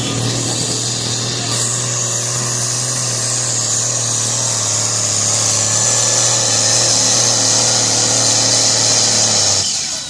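A pulling tractor's diesel engine running flat out under load down the track, a steady loud drone with a high whine over it. It cuts off sharply near the end, as the engine is shut down at the end of the pull.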